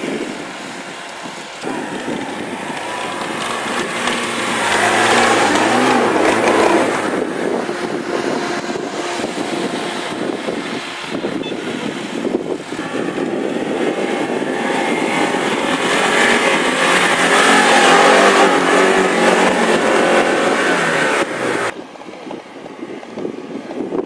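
Lada Niva's engine revving hard as the 4x4 drives through deep snow, swelling in two long surges and falling away sharply near the end.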